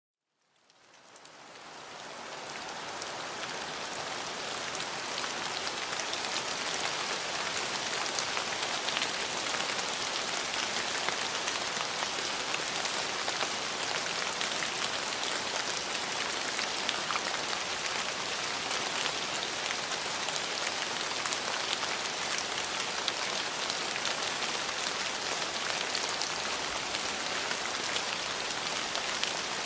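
Steady rain falling on hard surfaces, a dense patter of many drops that fades in over the first few seconds and then holds even.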